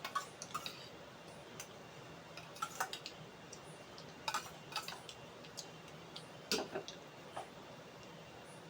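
Close-up eating sounds: irregular soft clicks and smacks of chewing, a few louder ones around the middle.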